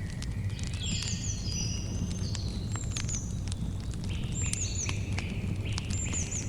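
Campfire crackling with scattered sharp pops over a steady low rumble, while birds sing short repeated chirping phrases above it.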